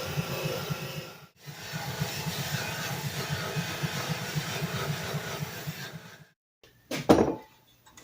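A small motorised polisher running as a plastic drill handle is buffed, a steady whirring with a fast pulsing undertone that cuts off just after six seconds. Near the end there is a single loud knock.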